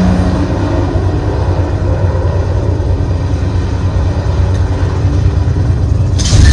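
Deep, steady rumble from a film soundtrack played over a cinema sound system, with a sudden hissing burst near the end.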